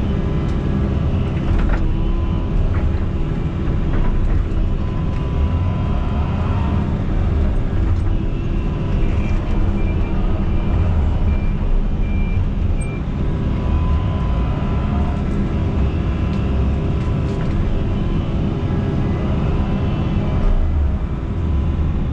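Diesel engine of heavy earthmoving equipment running steadily, heard from inside the machine's cab, with a faint steady whine that comes and goes.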